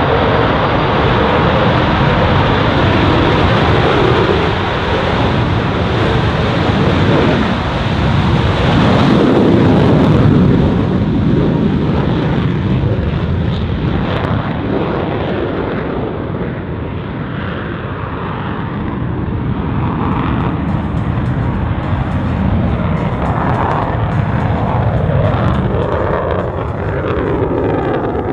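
Jet noise from an F-35B Lightning II's F135 turbofan engine as the fighter flies its display, loudest about ten seconds in, easing off, then building again near the end.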